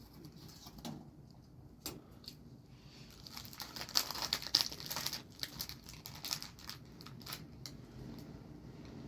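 Crinkling, rustling handling noise with scattered clicks, loudest and densest about three to five seconds in.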